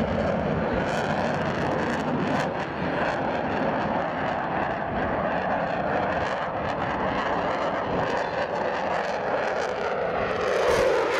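Jet noise from a Eurofighter Typhoon's twin EJ200 turbofans flying a display: a steady, loud rushing roar that swells near the end as the jet comes closer, with a sweeping comb-like shimmer in the tone.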